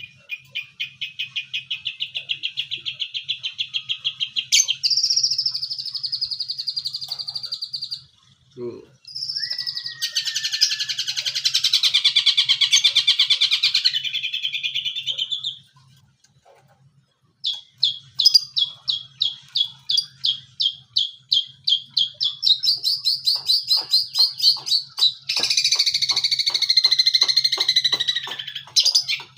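Long-tailed shrike (cendet) singing long runs of fast, repeated trilled notes, with a harsher, noisier stretch in the middle and a short pause later on. It is a young bird practising its mimicry of other birds' calls.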